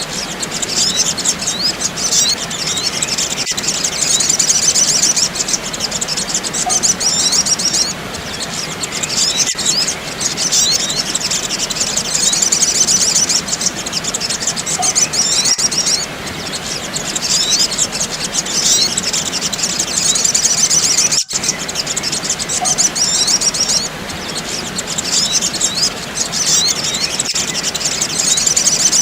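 Sogok ontong (brown-throated sunbird) calls in a bird-lure recording: rapid, high twittering chirps in stretches of a few seconds, each broken by a short lull, repeating over and over. The sound cuts out for an instant about two-thirds of the way through.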